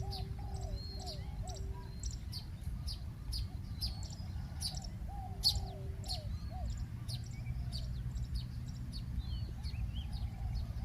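Spotted doves cooing in low, steady notes among the rapid, high chirps of small birds, over a steady low rumble.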